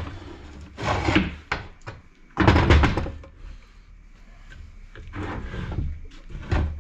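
Metal tools and gearbox parts being handled and knocked about, in three rattling clatters with a few sharp clicks between them.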